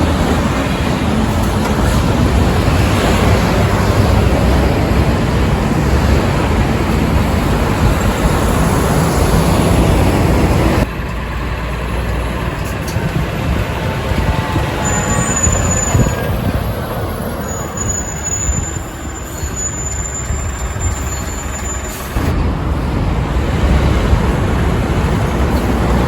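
Heavy trucks driving past on a road: steady engine and tyre noise that changes abruptly twice as the scene cuts. In the quieter middle stretch a high thin whistle sounds twice, the second time for several seconds.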